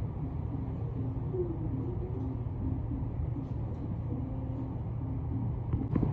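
Steady low rumble of background noise with faint, distant voices.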